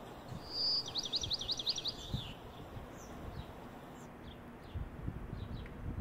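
A songbird singing: a short high whistle, then a quick run of about seven falling notes, followed by fainter scattered chirps.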